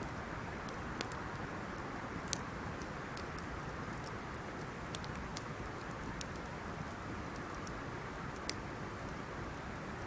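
Wood bonfire burning: a steady low rushing of the flames with scattered sharp crackles and pops from the burning wood, two of them louder, about two seconds in and near the end.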